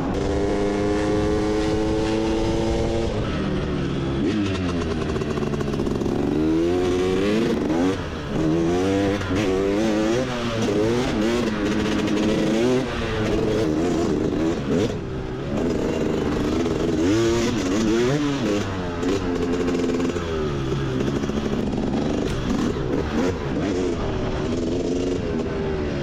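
Motorbike engine under way: first a few seconds of steadily climbing pitch, then the pitch rising and falling over and over as the throttle opens and closes.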